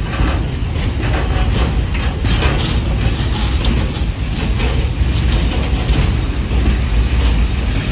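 Long freight train of container flatcars and tank wagons rolling past close by: a steady low rumble of steel wheels on rail with light clacking.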